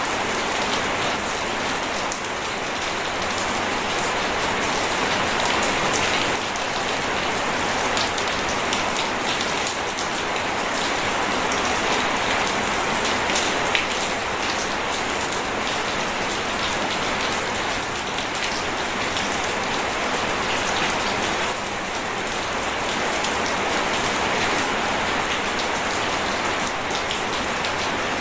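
Steady heavy rain falling, a dense even hiss peppered with countless fine drop ticks, with no thunder.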